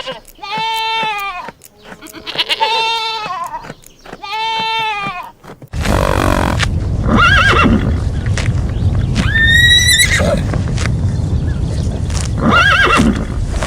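Farm animal calls. A run of four repeated, arching bleat-like calls, each just under a second long. About six seconds in, the sound cuts to a different recording with a steady low rumble and a few scattered calls, including one rising call near the middle.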